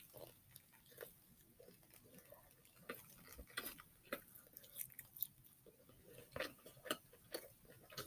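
A person chewing a mouthful of fried chicken sandwich: faint, irregular wet mouth clicks, more frequent in the second half.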